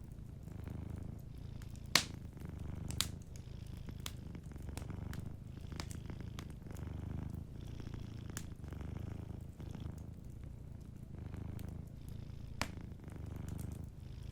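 A domestic cat purring steadily, the low purr swelling and easing with each breath, over a wood fire crackling, with a few sharp pops, the loudest about two seconds in.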